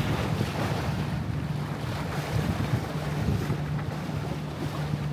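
Yacht's engine running steadily under motor, a low even hum, with wind buffeting the microphone and water noise around the hull.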